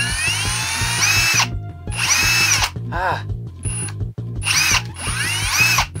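Cordless brushless hammer drill driving a bit into the centre piece of a plastic speed cube. The trigger is pulsed in about six short bursts, each a whine that rises in pitch and then holds, over background music with a steady beat.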